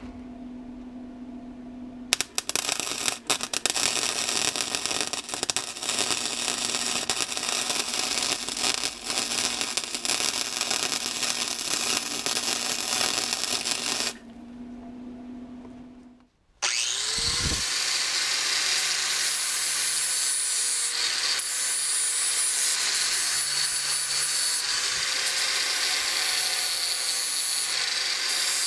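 An arc welder crackling and sputtering on exhaust steel for about twelve seconds, with a steady electrical hum before and after. About 16 seconds in, an angle grinder spins up with a rising whine and then runs steadily, grinding the metal with a high whine.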